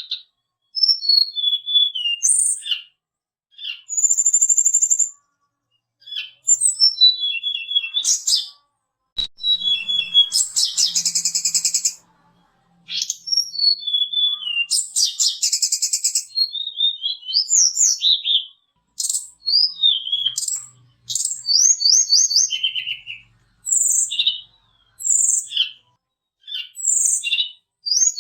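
A tledekan gunung (sulingan gunung) songbird sings a long series of high, clear whistled phrases, many sliding downward, mixed with quick buzzy trills and broken by short pauses. It is the lively, combative 'fighter' song that is played to a caged bird to provoke it into singing.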